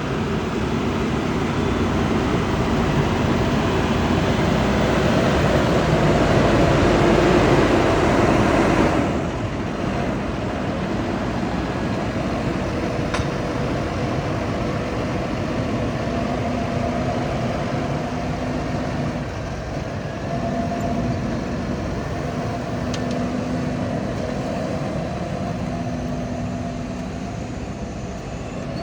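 Heavy machinery running with a steady rumble and hum, louder for the first nine seconds, then dropping suddenly to a lower, even level with a faint engine hum coming and going.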